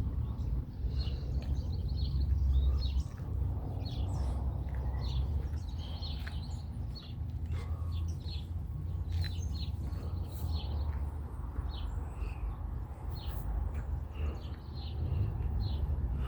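Small birds chirping repeatedly in short high calls, over a steady low rumble.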